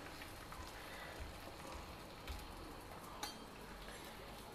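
Faint, steady sizzle of stuffed rotis frying in ghee on a hot tawa, with a couple of soft ticks.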